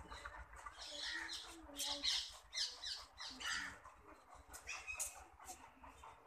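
Birds calling: a string of short, sharp, high calls, thickest about two seconds in and again near five seconds.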